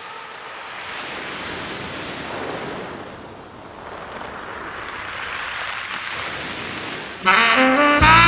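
Ocean waves washing in, swelling and ebbing slowly, used as the opening sound effect of the song. Music comes in abruptly near the end.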